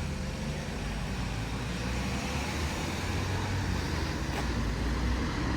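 Road traffic with a bus engine running, a steady low rumble.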